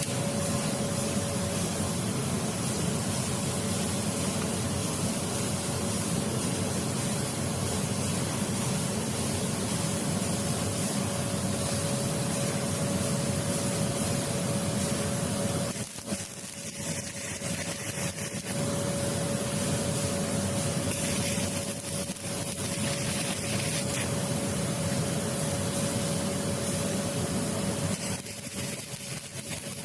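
A power tool's electric motor running steadily with a constant hum and hiss, easing off briefly about halfway through and again near the end.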